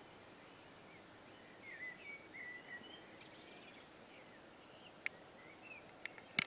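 Faint bird calls, short chirps and sliding warbles, over quiet rural background noise, with a few sharp clicks near the end.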